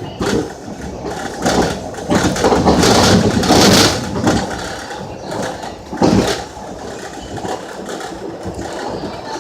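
Metro rail train running, a loud, uneven rumble and rattle with a burst of hiss about three and a half seconds in and a sharp clatter about six seconds in.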